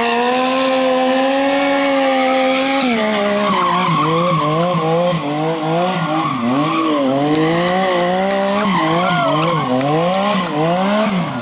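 Yamaha MT-09's inline-three engine holding a steady high pitch for about three seconds, then revving up and dropping back again and again, roughly once a second.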